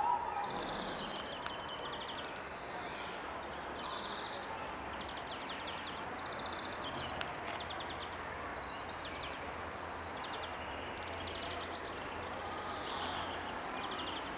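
Birds singing short, quick trills and chirps again and again at shifting pitches, over a steady background of outdoor noise with a low hum. A brief louder sound comes right at the start.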